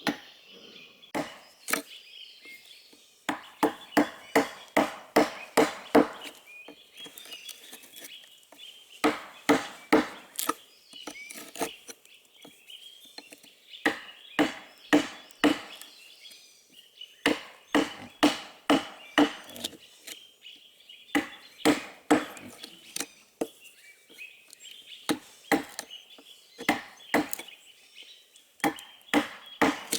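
Wood being chopped with a blade tool: runs of quick, sharp blows, about three or four a second, broken by short pauses.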